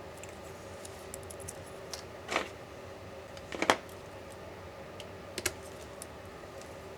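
Tools and small parts clicking and tapping against a MacBook Pro during disassembly: scattered light ticks and three louder knocks, the loudest about three and a half seconds in, over a steady faint hum.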